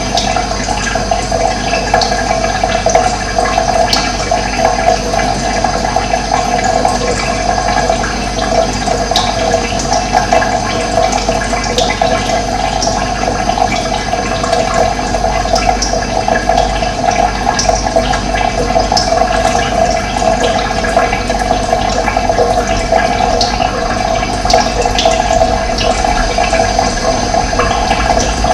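Running water rushing steadily, an even flowing noise with no break.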